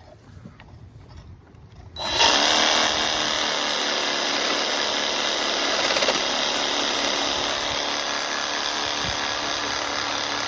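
A power tool starts about two seconds in and runs steadily, cutting through a furnace's frozen condensate drain pipe.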